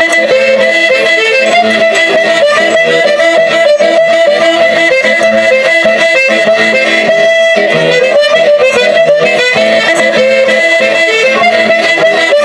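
Eight-bass button accordion (sanfona de 8 baixos) playing a lively folk tune, with other instruments accompanying, in Folia de Reis music.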